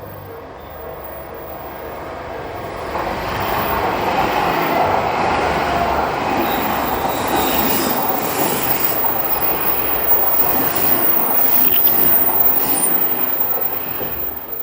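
An Odakyu Odawara Line train passing over a level crossing: the rumble and rail noise build from about two seconds in, stay loud with knocks from the wheels, and fade near the end. At the start the crossing bell's repeating ding can be heard before the train drowns it out.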